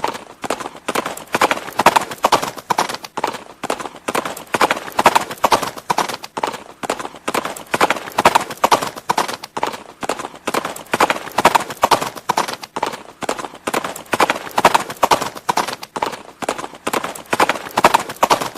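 Horse hooves clip-clopping on hard ground: a steady, quick run of hoof strikes that swells and eases in a regular rhythm.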